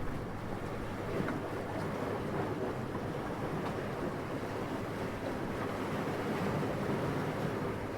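Steady wind, a soft even rushing that swells slightly and falls back.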